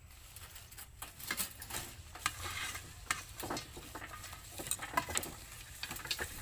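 Java plums being mixed with chili salt: irregular small clicks and rustles as the fruit is stirred and tossed together.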